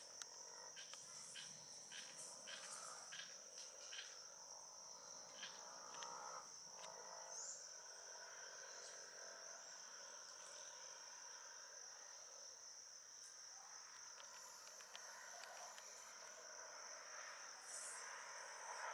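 Steady, high-pitched insect drone, such as a cricket, with a few short sharp chip-like notes in the first few seconds.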